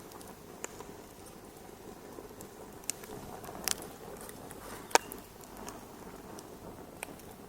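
Wood fire crackling in a fireplace: a steady soft rush of burning with a few scattered sharp pops, the loudest about five seconds in.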